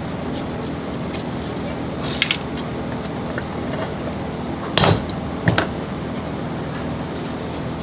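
A few sharp metal knocks and clinks from tools and parts being handled, the loudest about five seconds in, over a steady hum of workshop machinery.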